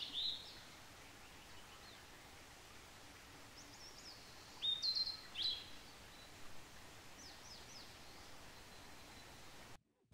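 Birds chirping over a faint steady outdoor hiss: short chirps at the start, a few louder calls around the middle, and fainter ones after. It cuts to silence just before the end.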